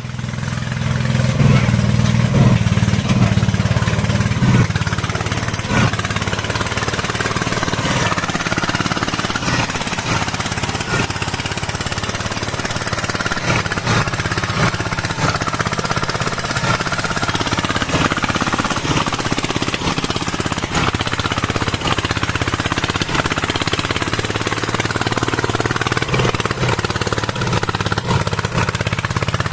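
Single-cylinder diesel engine of a Vietnamese công nông farm truck running with a rapid, steady chugging. It is louder in the first few seconds, then settles.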